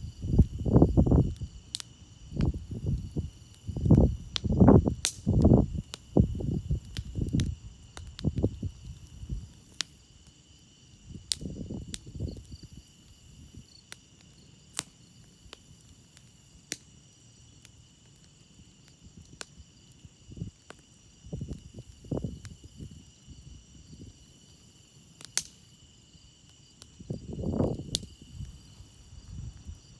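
Campfire crackling with scattered sharp pops over a steady chorus of crickets. Low rushing gusts come and go, heaviest in the first nine seconds and again near the end.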